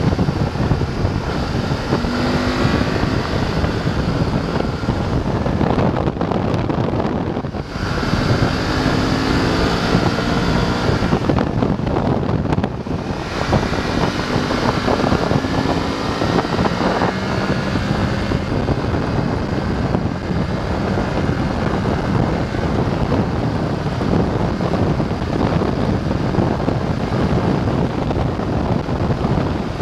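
BMW F850 GS parallel-twin engine pulling along the road, its revs rising and falling, with wind rushing over the microphone. The engine note eases off briefly twice, about six and twelve seconds in.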